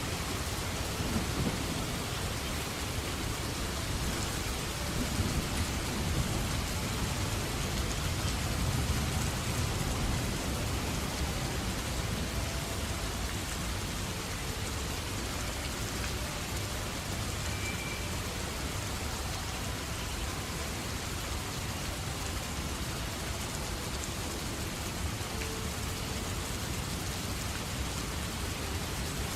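Steady rain with thunder rumbling low, the rumble heavier in the first half.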